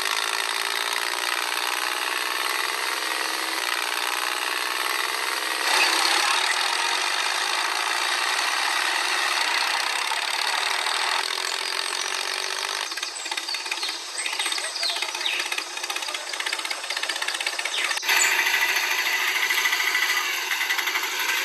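Small electric motor and gearing whirring steadily, its pitch rising over the first few seconds, with abrupt changes in level and tone about six, thirteen and eighteen seconds in.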